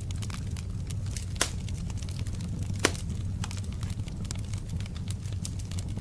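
Wood fire crackling in a fireplace: dense, irregular snaps and ticks over a steady low rumble, with two louder pops about a second and a half and three seconds in.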